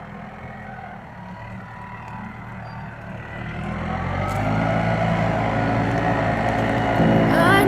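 New Holland tractor's diesel engine running steadily while pulling a disc plow, growing louder about halfway through.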